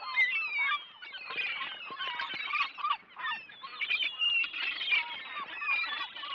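A flock of gulls calling overhead: many short cries overlapping one another in a continuous chorus.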